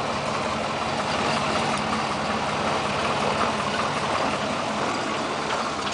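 Chevrolet K30 truck's 4.3 V6 idling steadily while it warms up after a cold start in below-zero cold.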